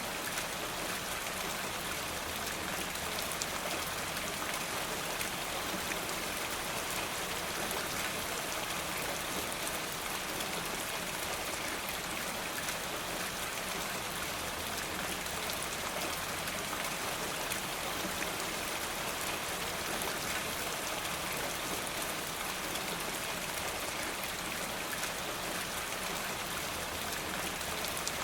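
Steady rain falling, a dense even patter with scattered sharper drop ticks.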